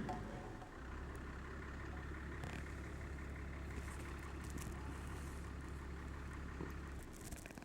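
A motor running steadily with a low, even hum, starting about a second in and cutting off near the end.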